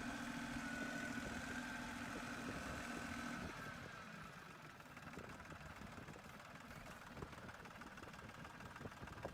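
Tractor engine running steadily with a held whine; about three and a half seconds in the whine stops and the engine sound drops to a quieter, rougher rumble.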